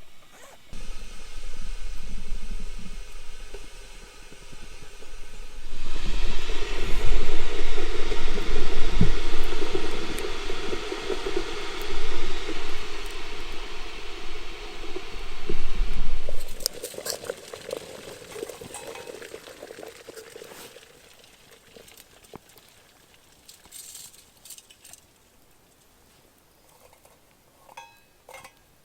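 Water pouring and splashing, louder for about ten seconds in the middle, then tapering off.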